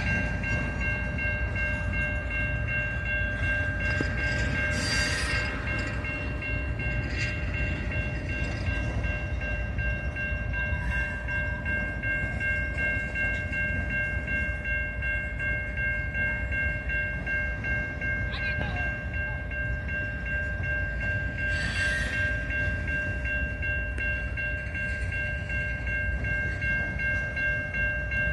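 Train rolling past with a continuous low rumble, and several steady high-pitched tones held throughout.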